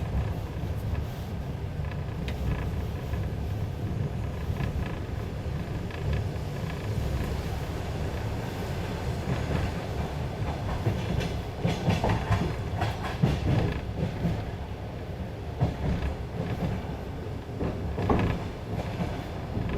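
Passenger train wheels running on the rails, heard from inside the carriage: a steady low rumble, with the clack of the wheels over rail joints coming in clusters in the second half.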